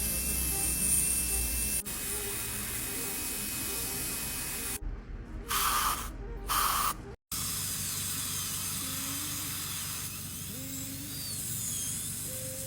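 Dental equipment hissing steadily, with two short, louder spray bursts in the middle, typical of a dental air-water syringe. The sound drops out briefly and gives way to a quieter hiss with faint rising and falling whines.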